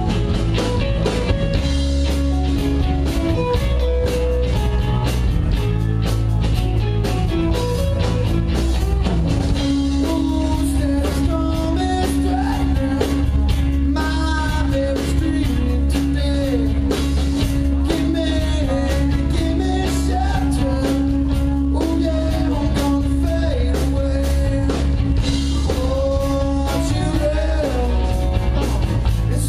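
Rock band playing live with a lead singer over electric guitar and drums, with steady driving cymbal strokes.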